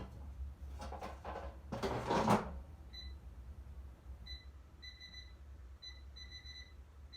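Air fryer's control panel beeping as it is set: a run of short high beeps, some held a little longer, after a couple of handling knocks near the start as the food goes in. A steady low hum runs underneath.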